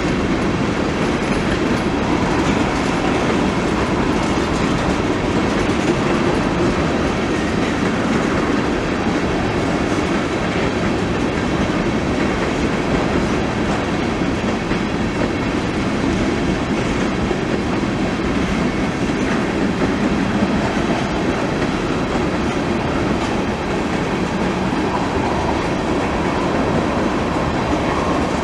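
Train running steadily on the rails: a continuous rumble with wheel clickety-clack that neither builds nor fades.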